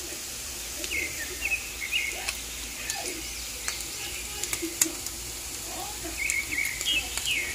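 Canned tuna sisig frying in a nonstick pan with a faint steady sizzle and a few small pops, no longer being stirred. Birds chirp in short bursts in the background, once early and again near the end.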